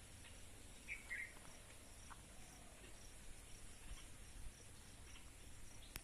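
Faint forest ambience of insects: a steady high-pitched drone with a high note repeating about twice a second, and a short bird chirp about a second in.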